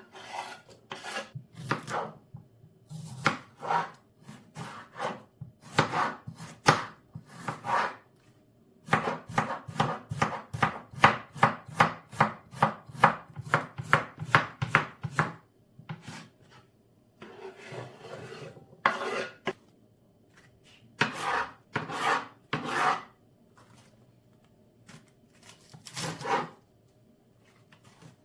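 Knife chopping food on a cutting board in bursts of quick strokes with pauses between them. The fastest run, about four strokes a second, comes in the middle; a softer scraping sound follows it.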